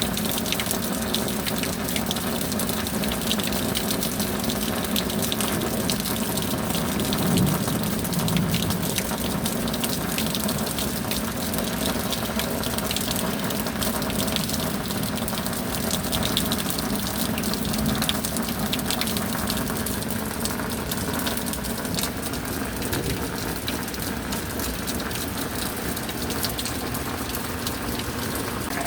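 Steady rain with water pouring and splashing, a dense patter of drops over a constant rush.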